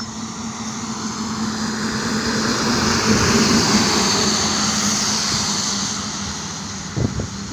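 Road vehicle running on a highway: a steady engine hum under road and wind noise that swells to a peak midway and then fades, with a few low thumps near the end.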